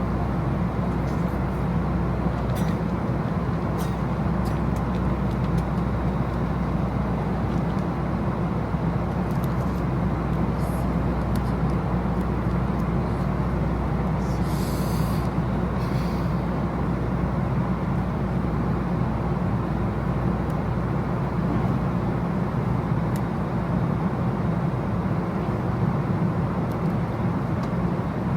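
Steady low rumble of a vehicle in motion, heard from inside it, with a few faint ticks and a brief hiss about halfway through.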